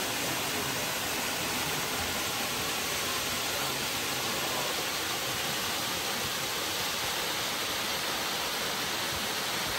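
Steady rushing roar of a waterfall, even and unchanging.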